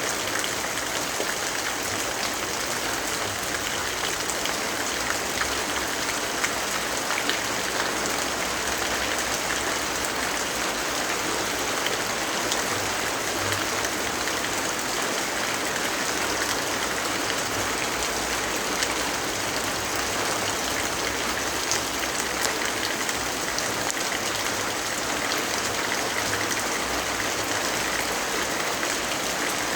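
Steady rain falling, a dense even hiss that does not let up, with a few faint sharp ticks scattered through it.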